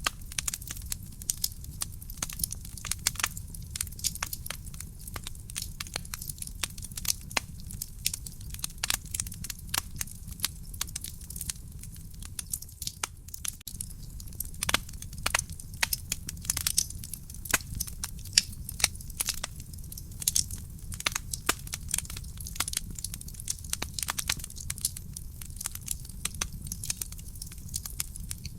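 Wood fire burning in a fireplace, crackling with many quick irregular pops and snaps over a steady low rumble of the flames.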